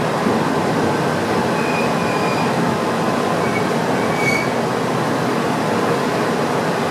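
Tokyu 8500 series electric train running, heard from inside the front cab: a steady rumble of wheels on rail, with a few faint, brief wheel squeals in the middle.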